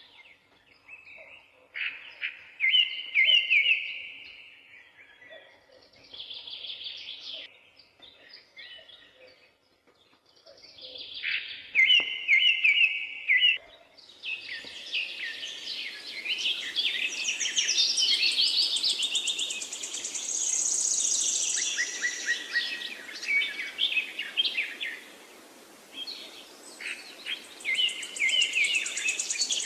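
Songbirds singing in short phrases with pauses between them. About halfway through a steady hiss begins abruptly, and several birds sing more densely over it, including high trills.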